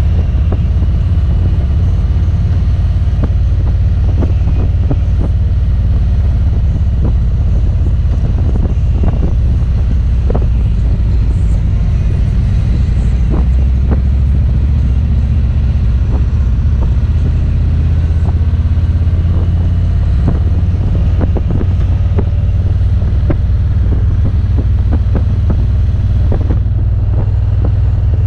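Motorcycle engine running steadily at road speed, heard from on the bike, with wind buffeting the microphone.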